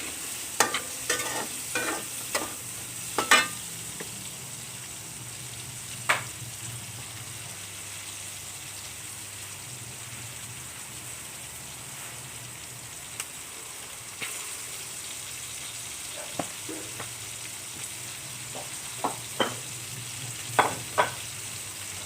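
Chili peppers frying in hot oil in a pan, a steady sizzle throughout. Sharp knocks of a utensil against the pan come in a cluster over the first few seconds, once about six seconds in, and again near the end.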